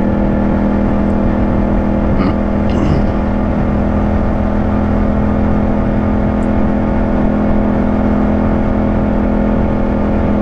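Yamaha 689 cc parallel-twin motorcycle engine running at a steady cruise under way, its pitch and level holding even, with a low rumble of wind and road noise.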